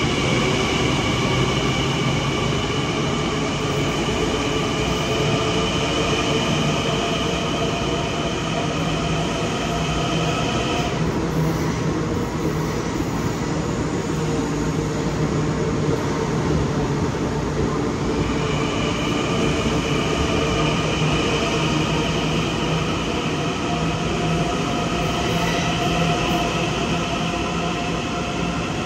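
Long Island Rail Road electric multiple-unit train in an underground station: a steady rumble with a high two-pitch whine over it, which drops out for several seconds in the middle and then comes back.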